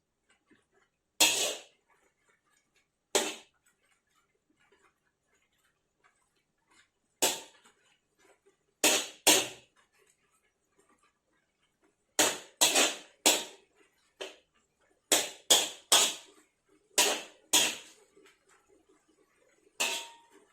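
A utensil clinking and knocking against a bowl or pot in short, irregular strikes, some in quick pairs, each ringing briefly.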